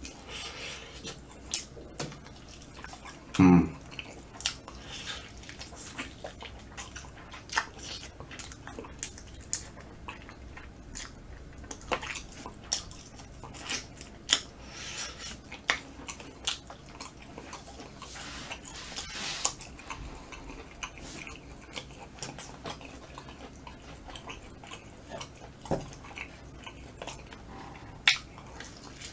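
Close-up chewing and biting of smoked chicken leg meat, with many short wet mouth clicks and smacks scattered throughout. A brief vocal sound from the eater stands out about three and a half seconds in.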